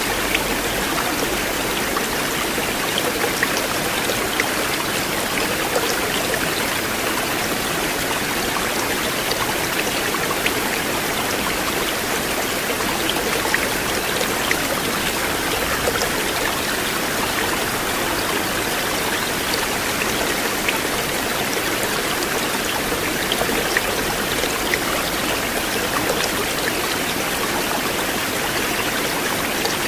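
River water flowing steadily: a continuous rush with small splashes ticking through it.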